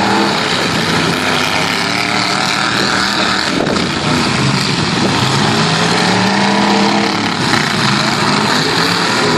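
Several half-ton pickup truck engines revving hard and rising and falling in pitch, with one sharp bang of an impact about three and a half seconds in.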